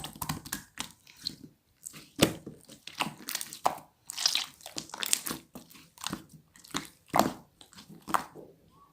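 Slime being mixed and squished by hand, in irregular short bursts of sticky squelching about one or two a second.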